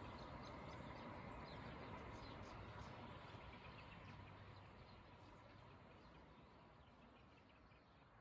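Near silence: faint open-air ambience with scattered small bird chirps over a low hiss, fading out gradually.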